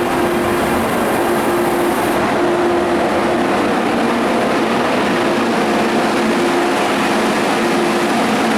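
MTR Tung Chung Line CAF electric train moving at the platform: a loud, steady running noise with a held hum from the traction equipment.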